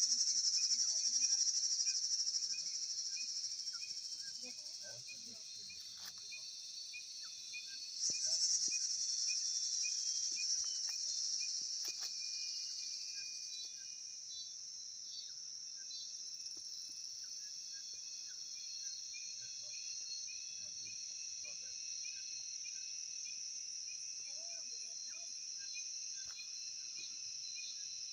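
Rainforest insect chorus: a steady, high, shrill buzzing that swells loudest at the start and again about eight seconds in. Behind it runs a repeated short chirping call that settles into about two chirps a second in the second half.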